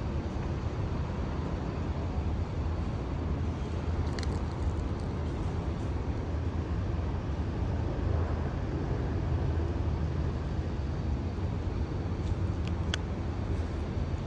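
Steady city traffic noise, a low rumble of passing cars, with a couple of faint clicks.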